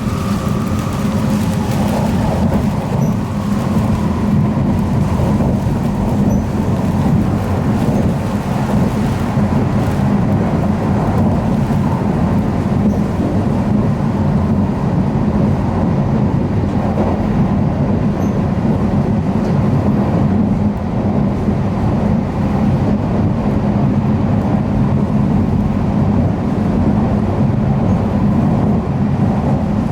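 Tokaido Shinkansen bullet train running at speed, heard from inside the passenger cabin as a steady, loud low rumble.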